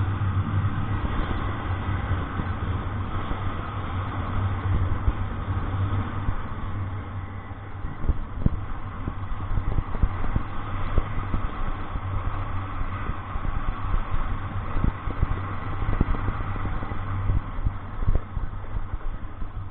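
Vehicle engine running steadily with a low hum, with scattered knocks and thumps.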